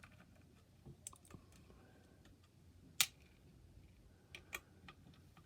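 Sparse small clicks and taps of a screwdriver and metal and plastic parts handled during a graphics card teardown, with one sharper click about three seconds in.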